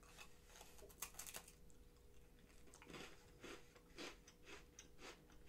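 Faint crunching and chewing of a thin crisp waffle cookie sandwich filled with matcha chocolate cream, a cluster of crunches about a second in, then chews about twice a second.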